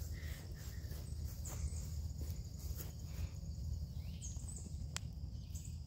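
LS-swapped 1985 Chevrolet C10's V8 idling on a cold start, a steady low, pulsing exhaust rumble.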